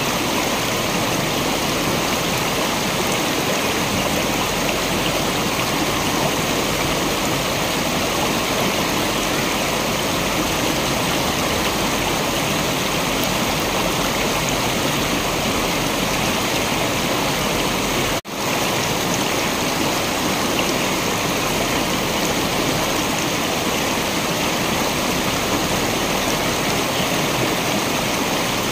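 Waterfall water rushing steadily, an even unbroken roar of falling water. The sound cuts out for an instant about two-thirds of the way through, then returns unchanged.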